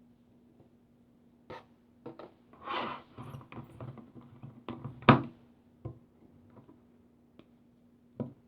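Hands playing with a slime, making sticky clicks and pops with a softer squishing stretch near three seconds and one much louder pop about five seconds in.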